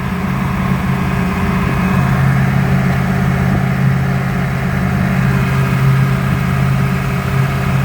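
Supra Sunsport's inboard V8 running in neutral with the throttle opened, holding a steady raised speed that lifts slightly about two seconds in. The engine is running rough and down on power, the fault later traced to swapped spark plug wires on cylinders 2 and 3.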